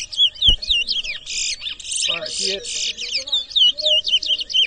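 Twa-twa (large-billed seed finch) singing in a song race: a fast string of repeated whistled notes that swoop down and up, broken by buzzy trills. Each completed song is counted toward the race tally.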